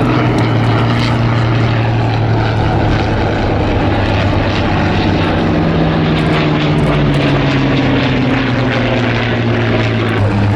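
Hawker Nimrod biplanes' Rolls-Royce Kestrel V12 piston engines and propellers droning steadily in a fly-past, the pitch drifting slightly lower in the second half.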